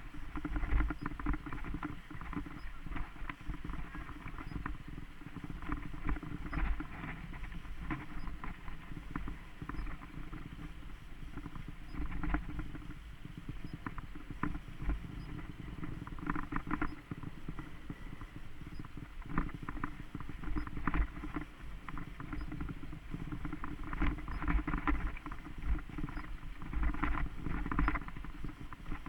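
Mountain bike riding over a rough dirt trail: a steady low rumble with frequent irregular clatters and knocks from the bike jolting over bumps.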